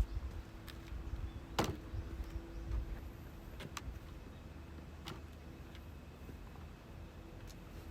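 A few sharp, isolated clicks or knocks over a low rumble, with a faint steady hum in the first half.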